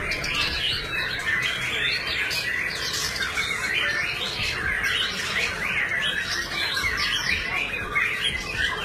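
Many caged songbirds singing at once: a dense, unbroken chorus of overlapping chirps, whistles and warbles.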